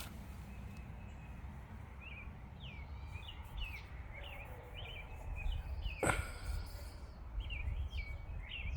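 Small birds chirping repeatedly in short calls over a steady low outdoor rumble, with one sharp click about six seconds in.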